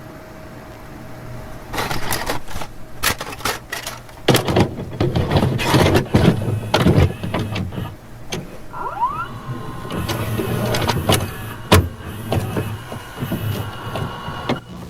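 Railway mechanical noise, taken to be the steam locomotives PRR 7002 and PRR 1223: irregular clanks, knocks and bursts of hissing, with a short rising squeal about nine seconds in.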